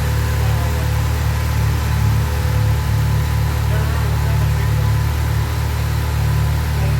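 Newly installed Subaru EJ20X turbocharged flat-four engine idling steadily.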